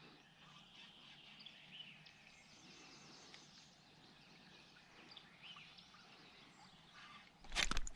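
Faint outdoor background with a few scattered, short bird chirps. Near the end, a much louder noise starts abruptly.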